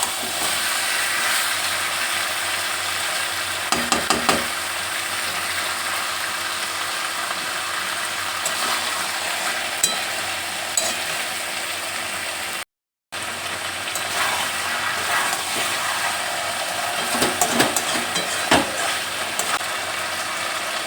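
Marinated chicken sizzling in oil in a pan as it is fried down for chicken kasha, with the scrape and clack of a spatula stirring it about four seconds in and again several times near the end. The sound cuts out for a moment about two-thirds of the way through.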